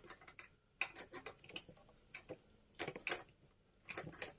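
Small hard parts clicking and knocking irregularly as they are handled and fitted together during assembly.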